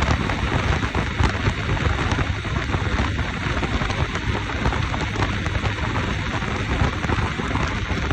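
Steady rushing wind and road noise on the microphone of a moving motorcycle: an even hiss with a low, fluttering rumble underneath.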